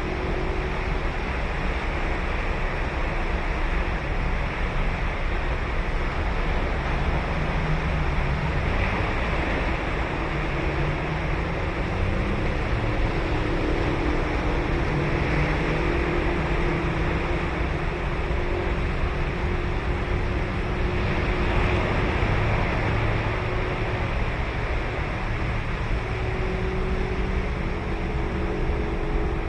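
Ocean surf washing onto a sandy beach in a steady rush, swelling a little with each wave. A low engine drone runs underneath, its pitch drifting slowly.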